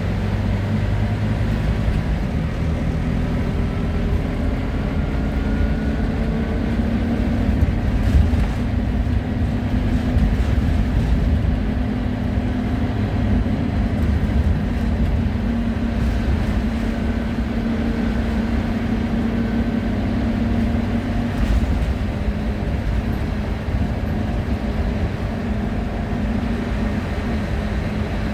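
Wright Solar Rural Scania single-deck bus under way, heard from inside: a steady low engine and road rumble, with the engine note and a faint whine rising and falling as it drives on, and an occasional knock or rattle.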